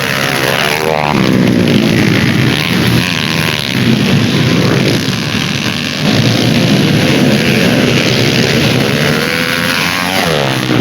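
Dirt-bike engines revving hard as the bikes race on the track, their pitch climbing and dropping over and over with throttle and gear changes. A bike passes near the end with a falling pitch.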